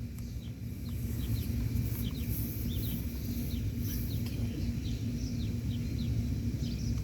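Outdoor ambience: a steady low rumble with small birds chirping over it, short falling chirps repeating throughout. A single sharp snap comes at the very end.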